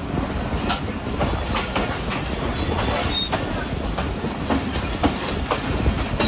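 Hazara Express passenger train running on the track: a steady rumble with wheels clicking irregularly over the rail joints.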